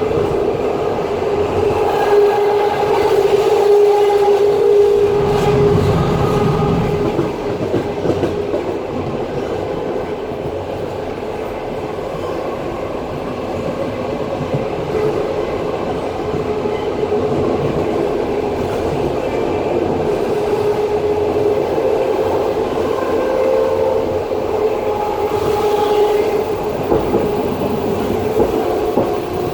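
Passenger train running along the line, heard from inside the carriage: steady wheel-on-rail rumble with a continuous humming whine from the wheels and rails.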